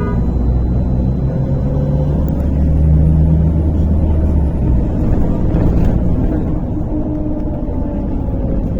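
MAZ-103 city bus heard from inside the cabin, its engine pulling with a deep low rumble that swells for a couple of seconds, with a faint whine rising and falling above it as the bus picks up speed.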